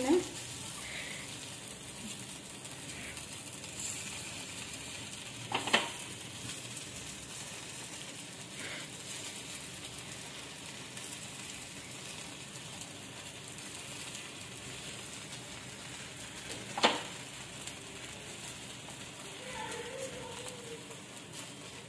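Appe batter cooking in a little oil in the cups of an appe pan over a low gas flame, sizzling softly and steadily. Two sharp knocks are heard, one about a quarter of the way in and one about three quarters of the way in.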